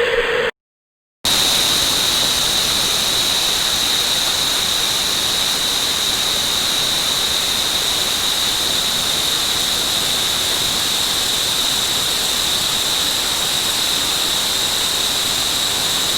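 Running water altered by a voice-changer effect: a steady rushing hiss with a constant high whistle over it, starting after a brief silent break about a second in.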